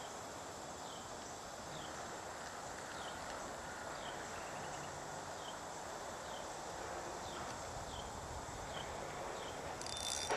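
Outdoor ambience: a steady rushing background noise with a bird repeating short, falling chirps roughly once a second, over a faint high steady hum.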